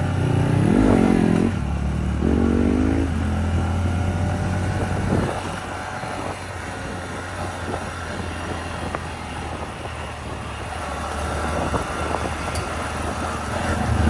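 Motorcycle engine revving twice in the first few seconds, the pitch rising and falling each time, then running steadily at a lower, even pitch.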